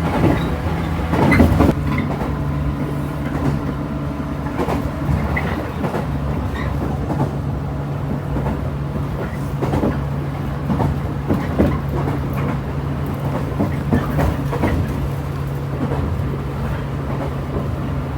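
Local train running between stations, heard from inside the carriage: a steady low hum with irregular clicks and knocks of the wheels on the rails.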